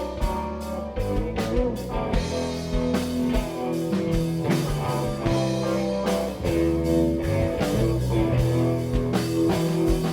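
Live blues-rock band playing an instrumental passage: guitar over bass and a drum kit keeping a steady beat, with no singing.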